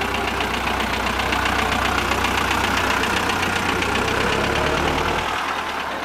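Engine of a 1930s convertible car running at low speed as the car drives slowly past. It grows louder as it passes and fades about five seconds in as it moves away.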